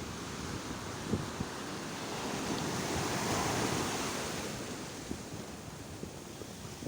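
Sea waves washing ashore: the surf swells up to a peak about halfway through and then eases off. Wind buffets the microphone throughout.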